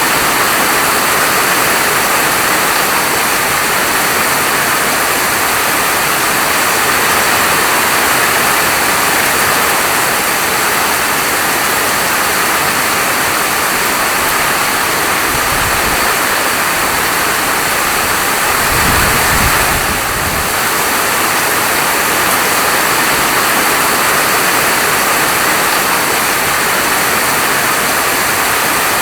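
Falling rain, a steady even hiss, with a brief low rumble about two-thirds of the way through.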